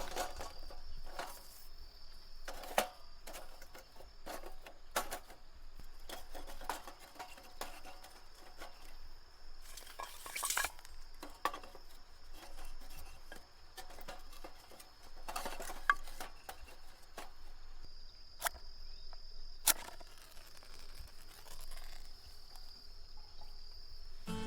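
Scattered clinks and knocks of camp cookware and utensils being handled, over a steady high insect trill.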